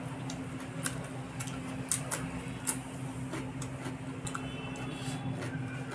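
Close-up eating sounds: irregular wet clicks and smacks of chewing and of food being handled, a few a second, over a steady low hum.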